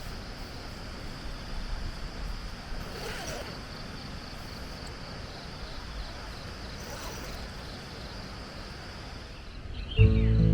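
Strong wind on the microphone as a steady low rumble, with a steady high-pitched hum over it. Acoustic guitar music comes in near the end.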